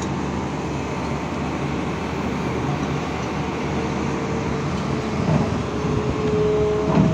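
Excavator's diesel engine running steadily, with a short whine rising in over the last couple of seconds and a sharp knock near the end.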